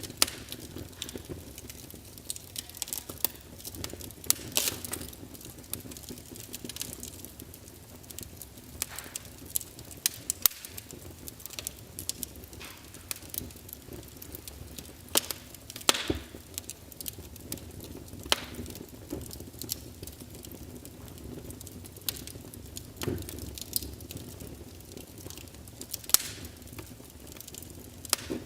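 Wood fire crackling in a fireplace: irregular sharp pops and snaps over a steady low rush of burning.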